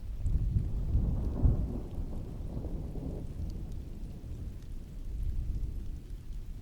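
A roll of thunder swells in at once, is loudest about a second and a half in, and rumbles away over the next few seconds, over steady heavy rain.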